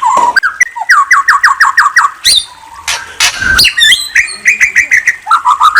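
Murai songbird singing. A run of about six quick, falling whistled notes opens the song, followed by a rising sweep and a looser string of notes. A faster series of chirps follows near the end, and a single sharp knock comes about halfway through.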